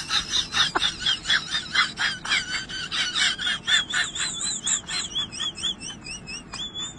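A small bird chirping in a fast run of short, high, wavering notes, about four or five a second, ending in a few longer warbles.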